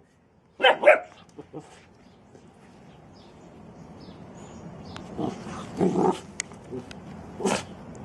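A dog barking: a quick pair of loud barks about a second in, then a few more barks spread out later, over a rising background hiss.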